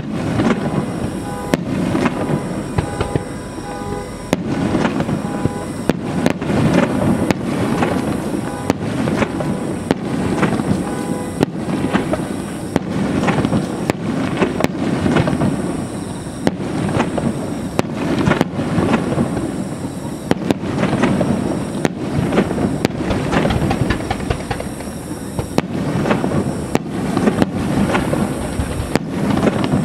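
Aerial firework shells bursting in a dense finale barrage: booms following one another several times a second with crackling between them, continuous and loud.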